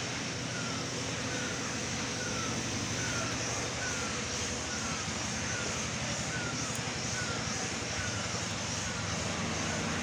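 A bird repeating a short falling call at an even pace, about three calls every two seconds, over a steady high-pitched shrill hiss and a low rumble.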